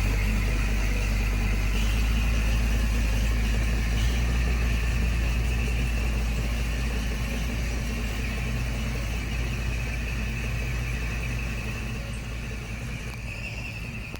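Heavy diesel engine of earthmoving machinery running steadily with a deep rumble, growing quieter over the last few seconds.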